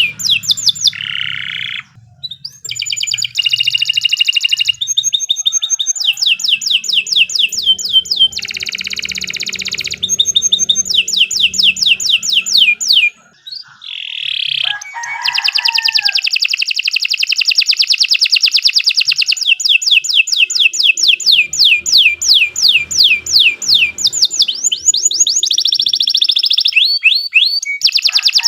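Domestic canary singing a long, continuous song of fast trills, one rapid phrase giving way to the next every second or two, with two brief breaks: one about two seconds in and one about halfway through.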